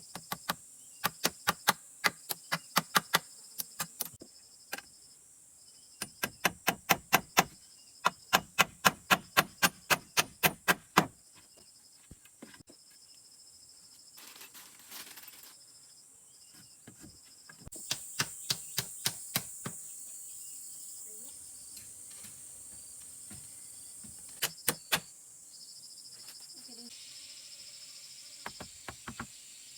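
Runs of rapid, sharp knocks, about three to four a second, in several bursts, typical of a hand tool striking wood. Under them is a steady drone of crickets and other insects.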